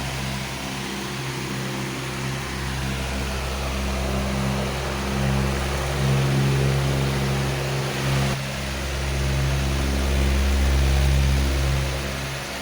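Powerful electric fan running: a steady rush of air over a low motor hum, the hum swelling and easing every few seconds.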